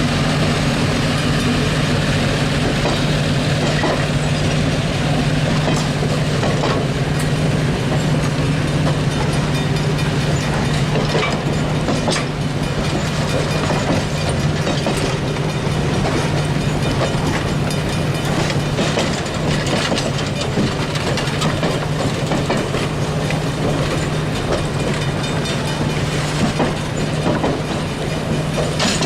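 A train running along the track: a steady low hum under continuous rumbling and rattling, with the wheels clicking over rail joints now and then.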